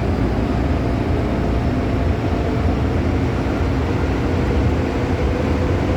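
Hong Kong MTR M-Train running at speed, heard from inside the carriage: a steady rumble of wheels on rail with a faint hum from the traction motors.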